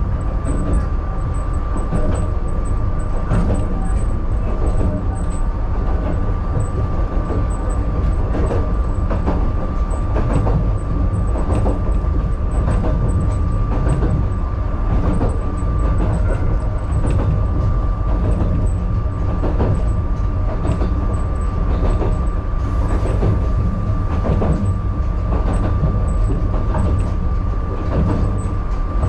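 Narrow-gauge (762 mm) electric railcar running along single track, heard from inside the driver's cab: a steady low rumble of wheels and running gear, a thin steady high whine, and frequent clacks as the wheels pass over rail joints.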